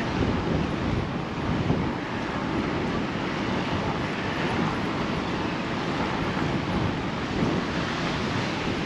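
Steady wind rushing over the microphone of a camera carried on a moving bicycle, blended with the wash of ocean surf.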